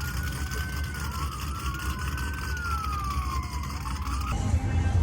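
Siren wailing, its pitch rising and falling slowly in long sweeps over a steady low engine rumble, cutting off suddenly about four seconds in.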